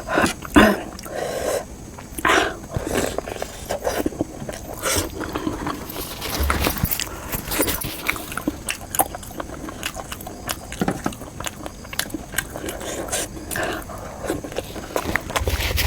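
Close-miked eating sounds: a person chewing with wet mouth clicks and lip smacks, irregular and continuous.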